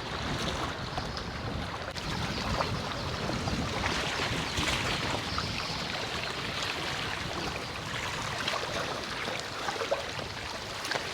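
Sea waves washing against the shore, with wind buffeting the microphone.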